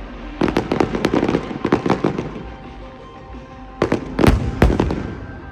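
Fireworks going off: a rapid string of bangs and crackles in the first two seconds, a lull, then a cluster of loud bangs about four seconds in, with music playing underneath.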